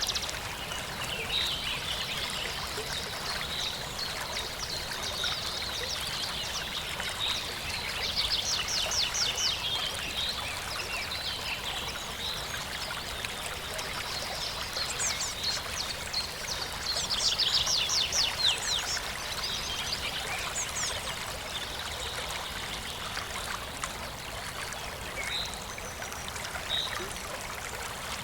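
Stream water flowing steadily, with songbirds chirping over it: short high notes throughout and two spells of rapid trilling, about eight seconds in and again around seventeen seconds.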